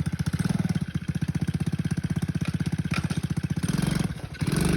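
An engine running with a rapid, even pulse, dipping briefly near the end.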